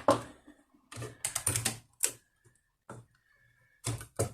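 Irregular clusters of short clicks and light rattles from a screwdriver and small plastic and metal parts being handled while a laptop's motherboard screws are taken out.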